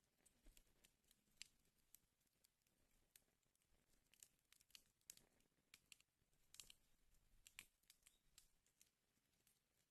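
Wood fire crackling faintly in a fireplace, with irregular sharp pops and snaps.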